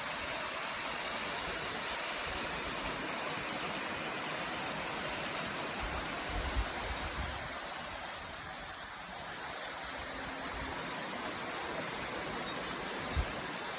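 Steady rushing of waterfall water, an even wash of noise. A few brief low thumps come about halfway through and once near the end.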